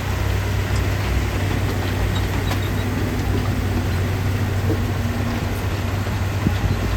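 Heavy diesel engine of earthmoving machinery running steadily with a low hum, with faint clanks over it.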